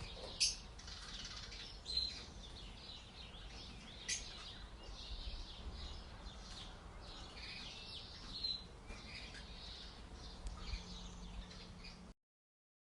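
Small birds chirping and tweeting in quick, high, short calls, with a few louder chirps standing out now and then.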